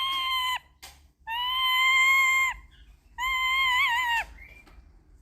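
A bird giving three long, level-pitched calls, each about a second long, with short pauses between them; the last call wavers briefly in the middle.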